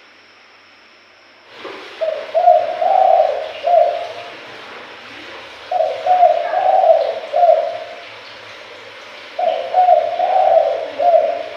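Spotted dove (tekukur) cooing as a lure call: three repeated phrases of about four notes each, the first starting about a second and a half in and the others a few seconds apart.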